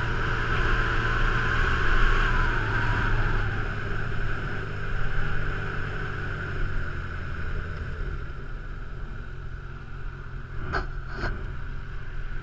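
Honda CB1000R's inline-four engine running under way with wind and road noise, its note dropping and growing quieter as the bike slows through the second half. Two short clicks near the end.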